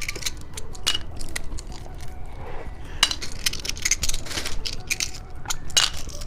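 Plastic candy packaging being handled and unwrapped: irregular crinkling and sharp clicks.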